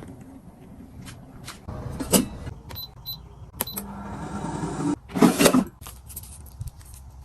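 Small household appliance sounds: scattered clicks and knocks, two short high electronic beeps about three seconds in, a low steady motor hum for about a second, then a brief louder whirring burst.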